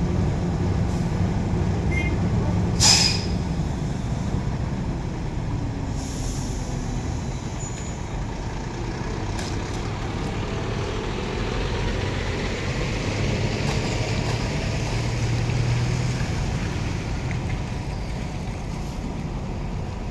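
Diesel container truck engine running steadily, with a short sharp hiss of the air brakes about three seconds in.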